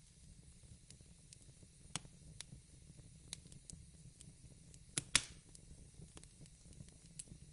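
Wood fire crackling: sharp, irregular pops and snaps, the loudest a double pop about five seconds in, over a low steady rumble.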